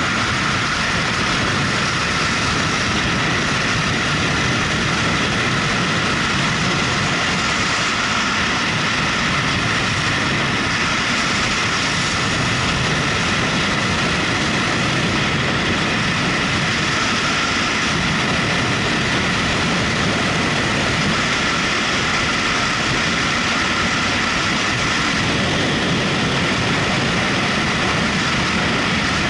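A motorcycle riding at a steady speed: a constant rush of wind and road noise with the engine under it, unchanging throughout.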